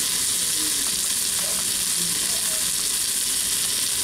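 Skinless chicken legs sizzling steadily in a Saladmaster electric skillet, frying without oil in their own juices.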